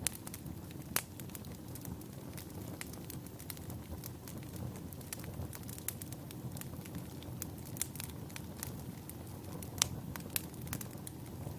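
Wood fire burning in a fireplace: a steady low rumble of flames with frequent sharp crackles and pops from the burning logs, a couple of them louder.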